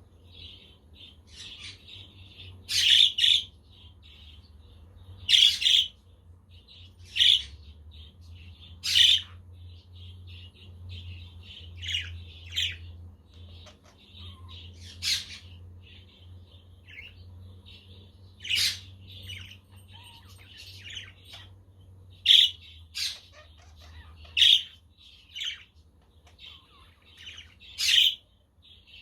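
A flock of budgerigars chattering and warbling without a break, cut through by about a dozen loud, sharp squawks at irregular intervals, with a steady low hum underneath.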